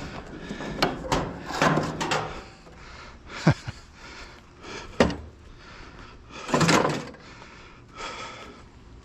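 Sheet-metal washer and dryer being handled and loaded onto a trailer: a series of clattering knocks and scrapes, with two sharp knocks about three and a half and five seconds in and a longer, louder burst of noise near seven seconds.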